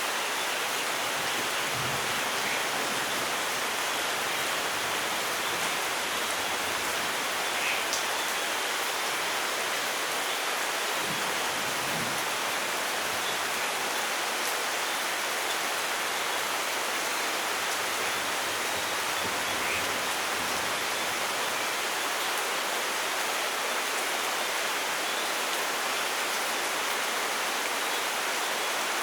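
Steady rain falling, a dense, even hiss with no change in level and no thunder.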